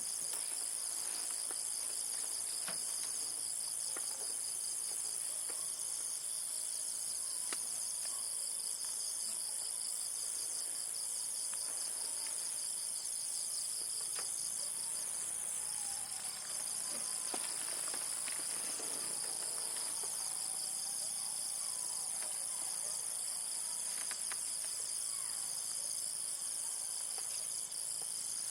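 A dense insect chorus chirring steadily at a high pitch, with a few faint clicks and knocks.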